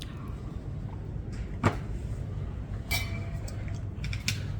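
Small metal carburetor parts and tools being handled: a sharp click, then a short ringing metallic clink and a few light taps, over a steady low hum.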